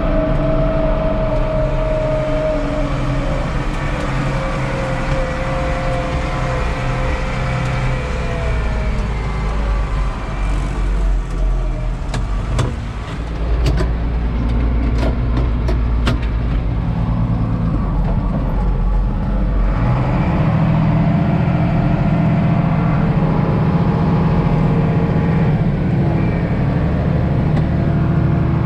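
Heavy diesel farm machinery engine running, its pitch easing down at first and picking up again in the second half. A run of sharp clicks and knocks comes midway.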